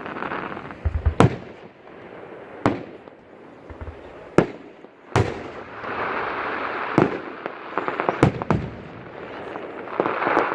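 Fireworks display: about six sharp booms of shells bursting, one to two seconds apart, the loudest about a second in, with stretches of crackling in between, heaviest a little past the middle and again near the end.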